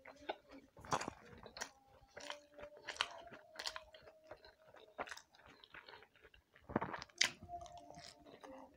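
Close-miked chewing of roti, with irregular wet mouth clicks and small crunches, the loudest cluster a little before the end as another piece goes into the mouth.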